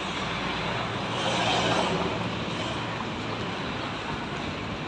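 Steady street traffic noise, swelling briefly about a second in as a vehicle passes.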